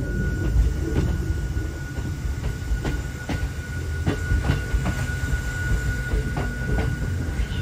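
Hakone Tozan Railway Moha 1 electric railcar running along the mountain line: a low rumble from the running gear with frequent irregular clicks and knocks from the wheels on the track, and a steady high-pitched tone.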